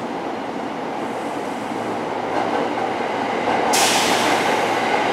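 Seibu 4000 series electric train pulling into the platform, its running noise growing steadily louder as it approaches. About three-quarters of the way in a sudden steady hiss joins in and holds.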